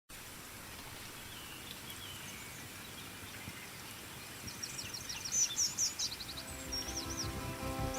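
Outdoor ambience: a steady background hiss, with songbirds singing quick trills of high repeated notes from about halfway through. Soft instrumental music fades in near the end.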